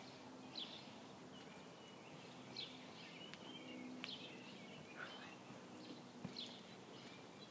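Faint bird chirps, short high calls every second or so, over quiet outdoor background noise, with a couple of soft clicks.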